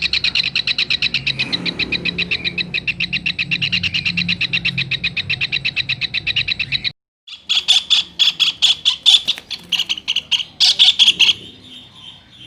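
Kingfisher (tengkek raja udang) calling in a fast, even series of high, sharp notes. After a brief silence about seven seconds in, a louder, more irregular run of calls follows and fades near the end.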